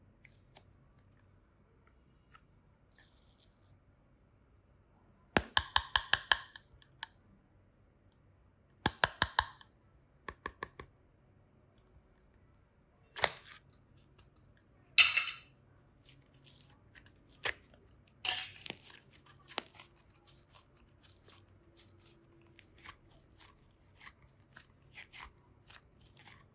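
Clay and slime being worked by hand: three quick runs of sharp clicks, a few louder swishes, then a long stretch of faint small crackles.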